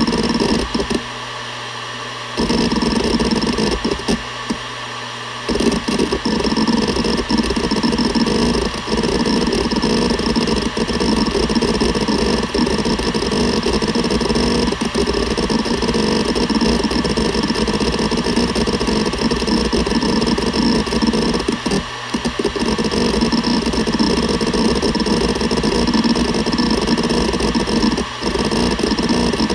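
Seagate Barracuda ES.2 ST31000340NS 7200 rpm hard drive spinning with a steady whine while its heads seek rapidly, a dense chattering grind. The seeking starts and stops in short spells over the first few seconds, then runs on continuously with two brief pauses in the latter part.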